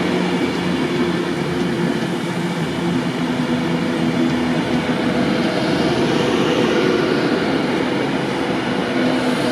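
A train running past at close range: a loud, continuous rumble of wheels and traction with a steady hum that swells slightly partway through.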